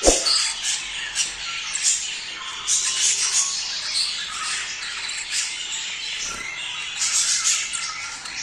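A flock of budgerigars chattering and squawking continuously, many short high calls overlapping, the warbling chatter budgies make when in breeding condition. A sharp knock sounds right at the start.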